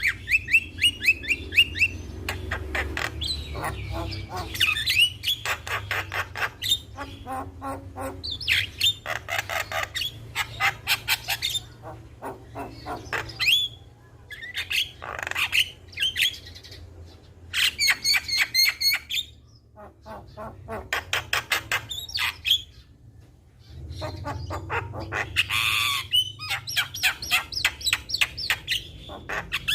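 Javan myna calling: repeated runs of rapid, harsh chattering notes broken by short pauses.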